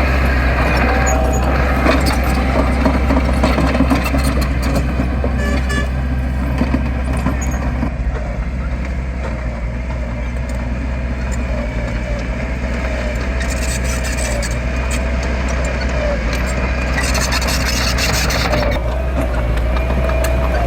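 Heavy diesel engine of earthmoving machinery running steadily with a deep drone, joined about 17 seconds in by a hiss lasting a couple of seconds.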